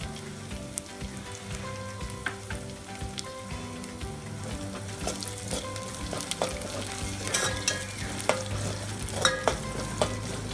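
Chopped onion, curry leaves and green chillies sizzling and crackling in hot oil in an aluminium pot. From about halfway through, a steel spoon stirs them, scraping and clicking against the pot.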